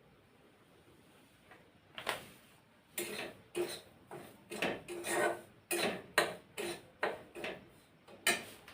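A metal spoon clinking and scraping against metal cookware, about a dozen sharp knocks at roughly two a second, each with a short ringing note, starting about two seconds in.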